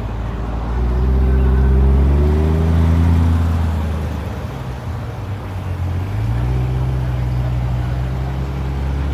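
Chevrolet C8 Corvette's V8 engine rumbling as the car pulls away at low speed. Its note climbs over the first three seconds, drops back, then holds steady.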